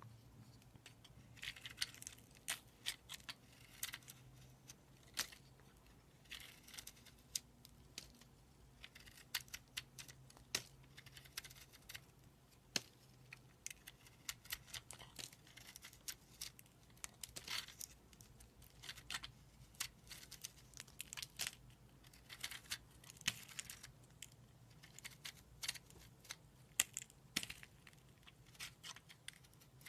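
Slime being squeezed and stretched by hand: a continuous run of irregular sticky clicks, pops and short crackles.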